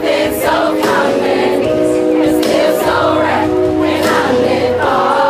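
Live R&B band and backing vocals playing through a PA during a sound check, with held chords, a steady bass line and regular cymbal hits.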